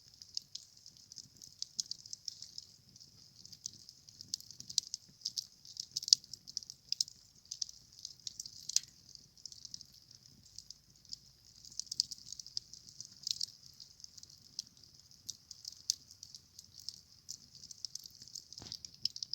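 Campfire burning, the wood crackling with many quick sharp pops and one deeper crack near the end.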